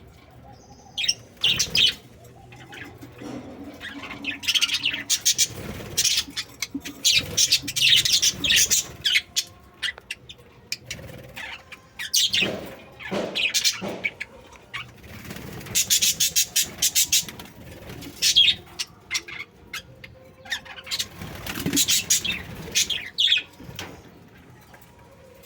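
Small pet parrots kept as love birds chirping, their short high calls coming in rapid clusters with brief lulls between.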